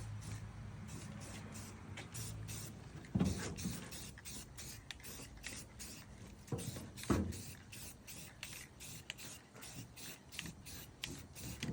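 Aerosol can of satin protective enamel spraying, hissing in many short repeated bursts, with two louder bumps about three and seven seconds in.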